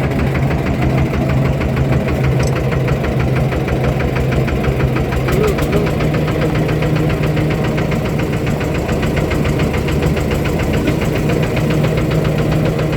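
Fishing boat's engine running steadily with a fast, even knocking beat; its pitch rises slightly about five and a half seconds in.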